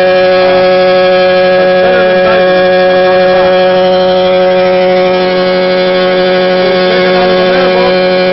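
Walinga 510 Agri-Vac grain vacuum running steadily as it conveys wild rice: a loud, even machine whine made of several held tones, easing slightly about five seconds in.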